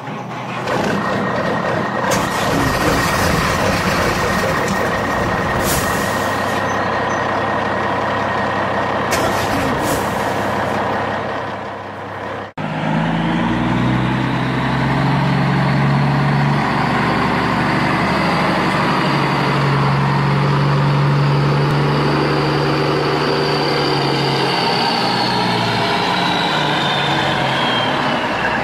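Heavy truck engine running steadily. About halfway through it cuts abruptly to a deeper engine note that rises and falls in pitch, and a high whine drifts downward near the end.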